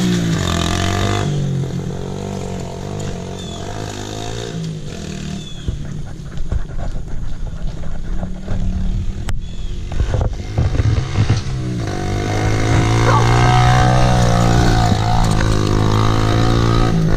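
Mini bike's small engine running and revving up and down as it is ridden, its pitch rising and falling. It gets louder and steadier about twelve seconds in.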